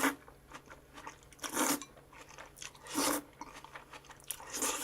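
A person eating close to the microphone: four short biting and chewing sounds, about one every second and a half.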